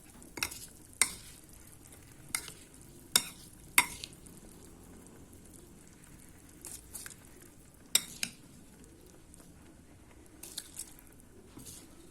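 A spoon knocking and scraping against a cooking pot as rice is added and stirred into boiling chicken broth. There are about a dozen sharp clinks, some in quick pairs, over a faint steady hiss.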